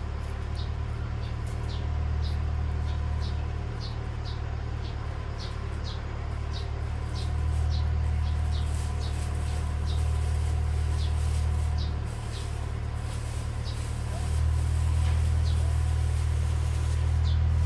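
A steady low hum whose level steps up and down every few seconds, with short high chirps, typical of a small bird, repeating about twice a second.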